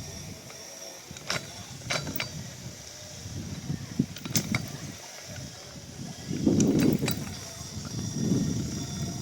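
Mechanical rumbling and creaking of a moving ride, with several sharp clicks and a louder rumble swelling about two-thirds of the way through.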